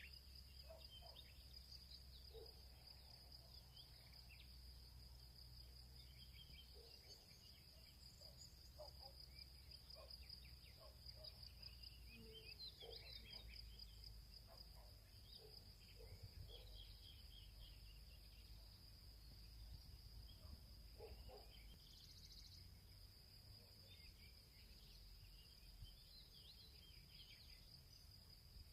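Field ambience: a steady high-pitched insect trill runs throughout, with scattered faint bird chirps now and then over a soft low rumble.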